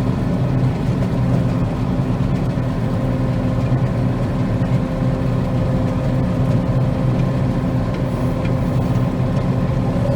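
Combine harvester running steadily while cutting soybeans: a constant engine drone with steady whining tones from the machine's drives.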